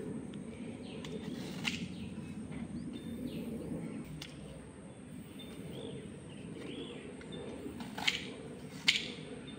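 Birds chirping faintly over steady low rural background noise, with three sharp clicks, one early and two close together near the end.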